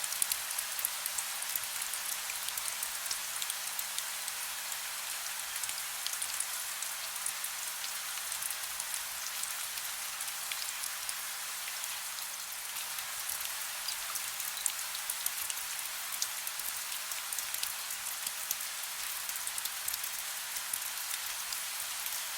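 Steady soft rain: an even hiss of rainfall with many small drop ticks, and a faint low hum underneath.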